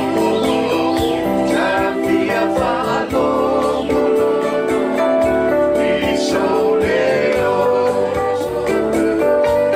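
A group of men and women singing a Samoan song together, in several parts, over an accompaniment with a steady beat.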